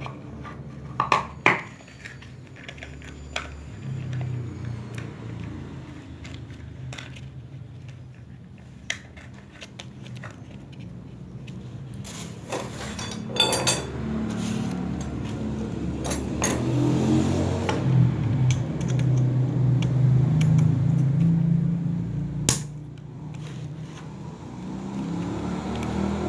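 Scattered clinks and knocks of tools and metal parts as a water pump is being assembled, over a low engine rumble that grows louder in the second half.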